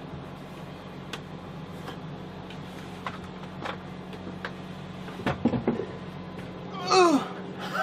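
Scattered knocks and clunks of a heavy boat battery being handled and lifted, with a person's loud groan of effort, falling in pitch, near the end.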